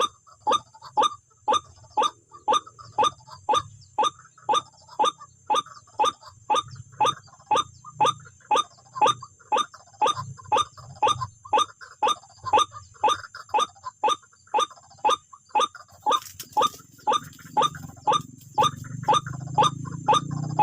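White-breasted waterhen (wak-wak bird) calling over and over at a steady pace of about two short, sharply falling calls a second, with a low rumble rising underneath near the end.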